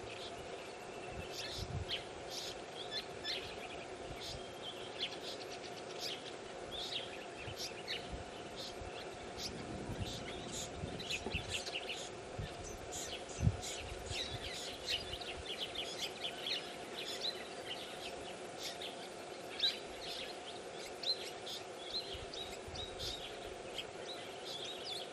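Birds chirping in many short, rapid notes over a steady low hum, with a single low thump about halfway through.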